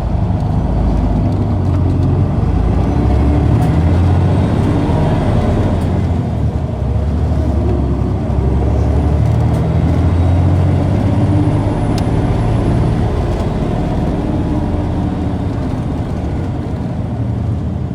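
Isuzu Erga city bus (PKG-KV234L2) inline-six turbo diesel heard from inside the cabin, pulling the bus along with its note rising and falling in pitch a few times. The engine carries a slightly abnormal sound.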